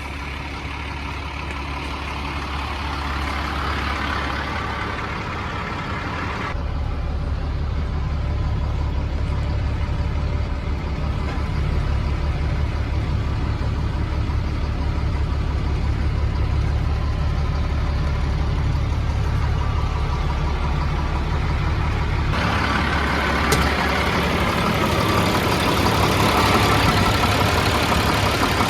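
Peterbilt 330 dump truck's CAT diesel engine running steadily with a constant low hum. The sound turns duller about six seconds in and brighter again several seconds before the end.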